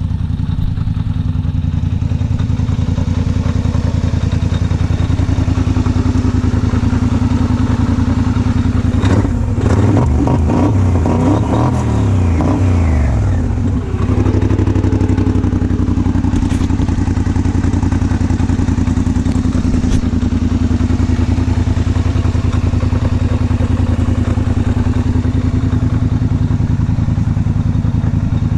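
2016 Highlifter ATV engine idling through its MRPP aftermarket exhaust. It is revved up and down several times from about nine seconds in, then settles back to a steady idle.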